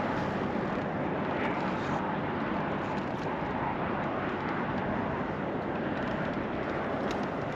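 Steady wind buffeting the microphone, an even rushing noise with a faint low hum beneath it.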